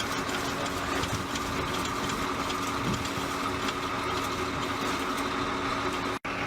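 Steady engine drone with a constant hum, typical of machinery running on an aircraft flight line. It drops out for an instant near the end and comes back with a brighter hiss.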